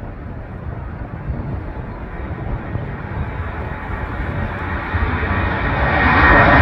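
Jet airliner taking off, its engine noise swelling steadily as it comes closer, with a high engine whine coming in near the end.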